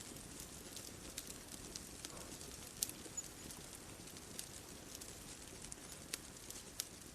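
Bonfire crackling: irregular sharp pops and snaps, the loudest a little under three seconds in, over a soft steady hiss.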